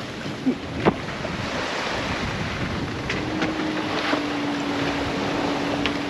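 Wind and rushing water around a sailboat under sail in a fresh breeze, with wind buffeting the microphone. A few sharp clicks or knocks sound through it, and a steady low hum comes in about three seconds in.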